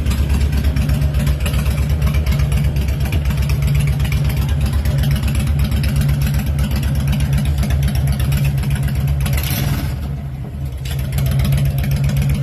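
Honda VTX 1300 V-twin motorcycle engine running steadily with a low, pulsing rumble, dipping briefly near the end.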